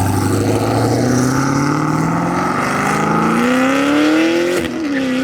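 A performance car's engine accelerating hard away, its pitch climbing steadily through one long pull. About four and a half seconds in, an upshift drops the pitch and it carries on at a lower note.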